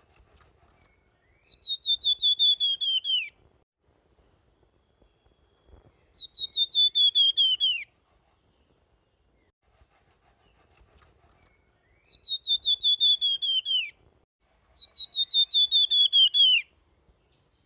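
A songbird of the kind bird keepers call 'flamboyan' singing four times: each song is a fast run of whistled notes that slides down in pitch and ends in a quick drop.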